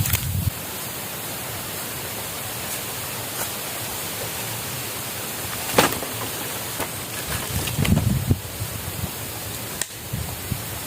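Steady rushing hiss of water, with a few sharp knocks and a low thump about eight seconds in.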